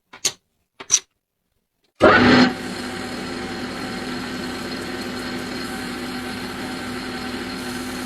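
Two short clicks, then a small electric motor starts about two seconds in, louder for a moment before settling into a steady run with a constant whine.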